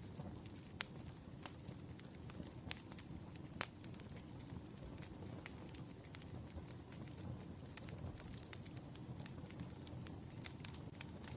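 Wood fire burning: a low, steady rumble of flames with irregular sharp crackles and pops of burning firewood.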